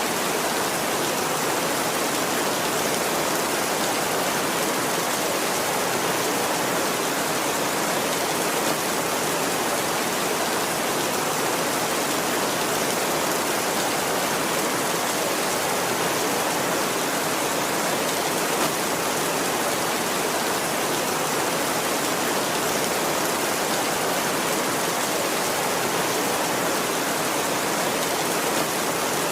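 Steady heavy rain, a constant even hiss of falling water without any thunder.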